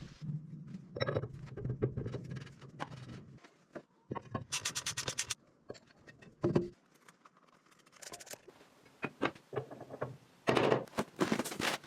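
Mechanical repair work on farm machinery: irregular clicks, knocks and scraping of tools and metal parts. A low hum runs through the first three seconds or so, and a short hiss comes about four and a half seconds in.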